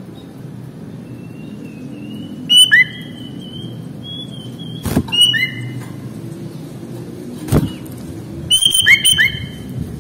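Sooty-headed bulbul calling in short bursts of chirps and clear whistled notes, three times: about two and a half, five and nine seconds in. Two sharp knocks sound near five and seven and a half seconds in, over a steady low hum.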